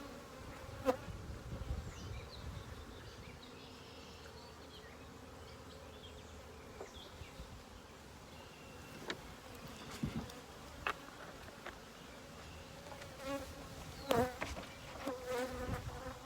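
Honey bees buzzing around an open hive, a steady wavering hum. Scattered clicks and knocks from handling the metal feeder can and tray, several close together near the end.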